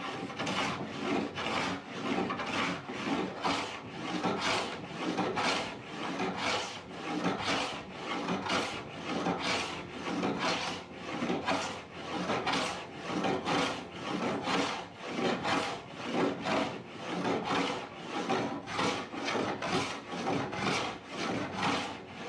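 A wooden door being worked by hand: a tool rubbed across the wood in an even rhythm of rasping strokes, about one a second.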